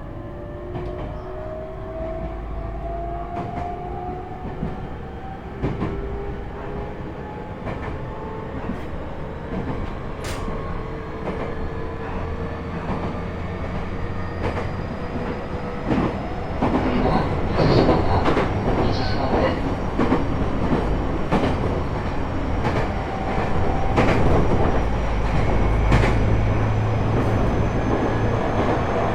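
Onboard running sound of a JR E127 series EMU picking up speed: the Toyo Denki GTO-VVVF inverter, traction motor and gears whine in several tones that rise slowly in pitch. Under it is a rumble, with rail-joint clicks that grow louder and more frequent from about halfway. In this car (KuMoHa E127-11) the gear whine carries an abnormal extra tone a semitone above the usual one.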